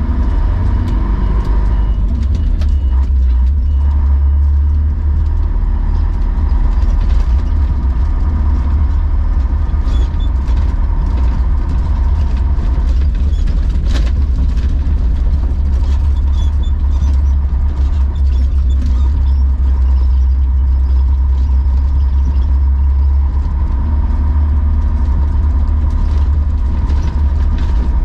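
Heavy Tatra Terrno1 6x6 tipper truck's diesel engine running steadily with a deep rumble, with scattered clicks and one sharper knock about halfway through.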